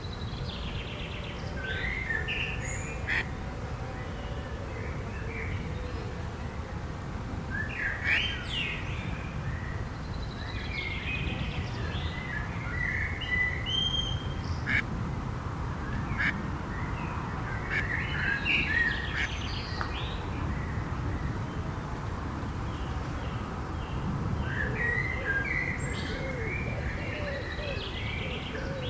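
Birds calling and chirping in scattered bursts every few seconds, over a steady low background rumble.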